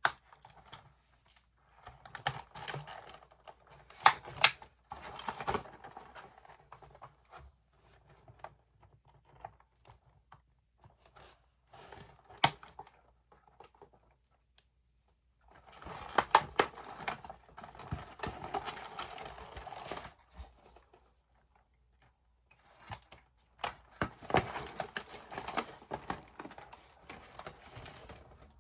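Doll packaging being worked open by hand: plastic and cardboard rustling and crinkling, with sharp clicks and snaps, in several bursts separated by quiet pauses.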